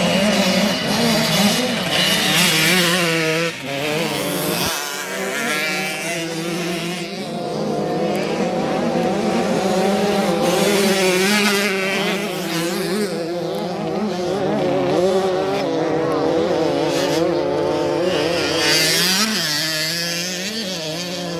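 Several dirt bike engines running hard at once, their pitches rising and falling as the riders throttle on and off.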